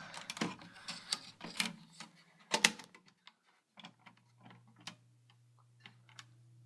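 A run of sharp clicks and knocks, loudest about two and a half seconds in, then a low steady hum that starts about four seconds in.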